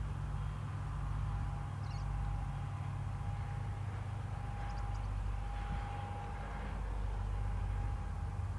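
Distant Airbus A320 jet airliner on approach: a steady low rumble with a faint, even whine over it. A few faint high chirps come and go.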